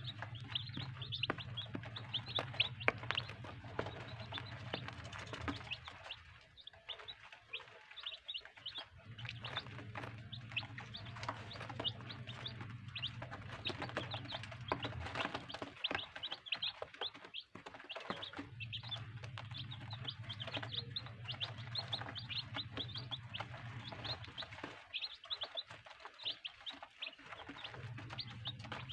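Baby chicks peeping continuously in rapid, high-pitched chirps, many overlapping. A low steady hum comes and goes every few seconds underneath.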